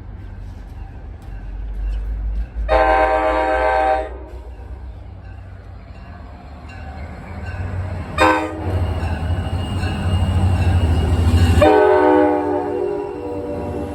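Train horn sounding a chord: a blast of about a second, a short blast, then a longer one, over the rising rumble of a train passing close by. The last blast drops slightly in pitch and fades as the train goes past.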